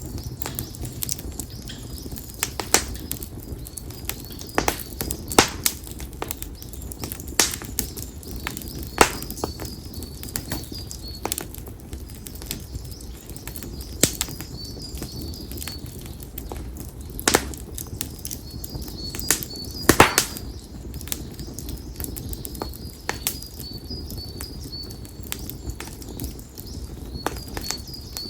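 Konara oak firewood crackling in an open campfire: irregular sharp pops over a low flame rumble, the loudest about twenty seconds in. A small bird repeats a short, high chirping phrase several times.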